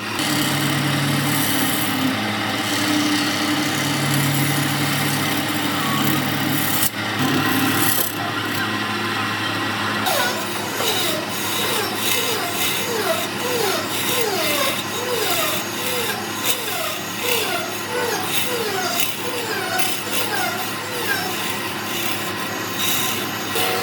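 Woodturning on a lathe: a cutting tool or abrasive rasping against a spinning wood-and-epoxy blank, a steady loud scraping. From about halfway through, a run of short falling squeals repeats one or two times a second over the scraping.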